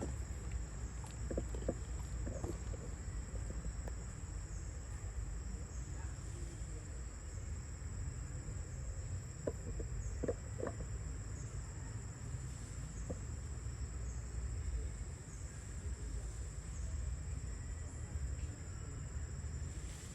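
Steady high-pitched insect drone, such as crickets or cicadas, over a constant low rumble, with a few brief faint calls about halfway through.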